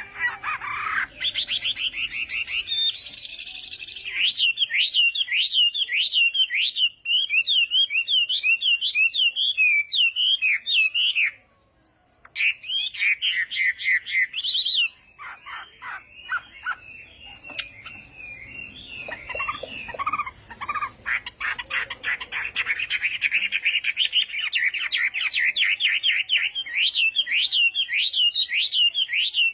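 Chinese hwamei (melodious laughingthrush) singing: fast runs of repeated, gliding whistled notes in changing phrases, with a short break a little before halfway.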